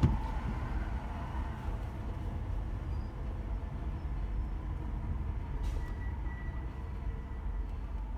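Car driving in slow city traffic, heard from inside the cabin: a steady low road and engine rumble, with one sharp thump right at the start.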